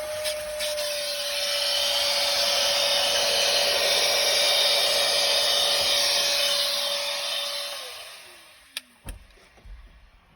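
Vacuum cleaner running, a steady motor whine over rushing suction air that grows louder about two seconds in. About eight seconds in it is switched off and the whine falls in pitch as the motor spins down, followed by a few knocks.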